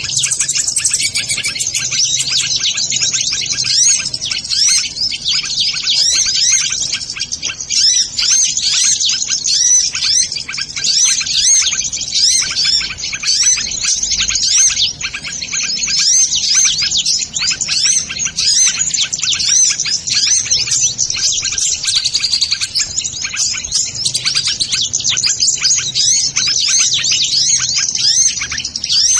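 Dense, unbroken high-pitched chirping and twittering of many small birds, sunbird (kolibri) calls of the kind used to lure them, with rapid overlapping chirps and quick up-and-down sweeps.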